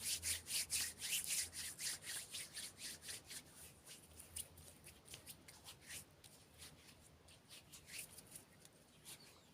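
Close-miked ASMR hand sounds: a quick run of short dry rubbing strokes, several a second, loudest in the first two seconds, then softer and sparser.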